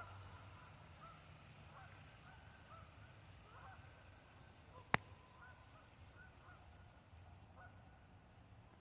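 A flock of geese honking faintly, many short calls overlapping without pause. A single sharp click cuts in about five seconds in.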